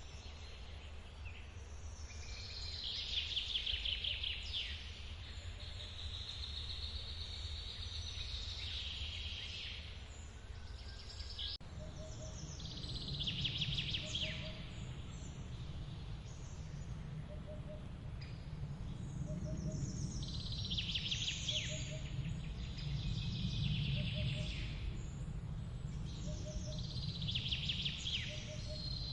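Songbirds singing repeated trilled phrases every few seconds over the steady low rush of a forest waterfall. From about halfway through, a short low note repeats about every second and a half.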